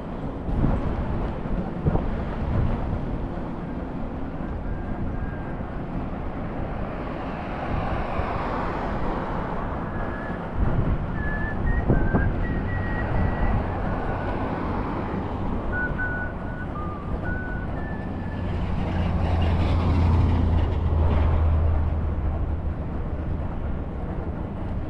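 City street traffic with wind buffeting the microphone from a moving scooter. A scattered run of short, high tones comes in the middle, and a heavier low rumble swells about twenty seconds in.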